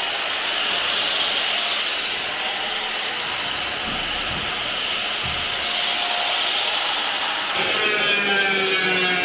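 Steady rasping, abrasive noise of tool work on the metal, with no clear rhythm. Music with pitched notes comes in near the end.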